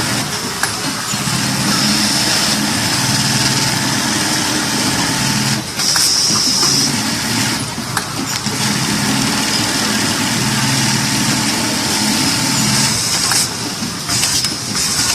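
Automatic bird eye (keyhole) buttonhole machine running through its sewing cycle: a steady motor hum with mechanical hiss. The hum breaks off with sharp clicks about six seconds in and again near the end, between cycles.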